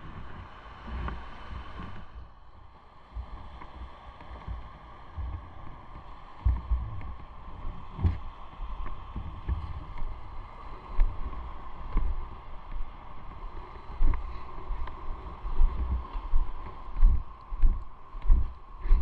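Motorcycle on the move: a steady engine hum under irregular low rumbling gusts of wind buffeting the microphone, which come thicker and stronger toward the end.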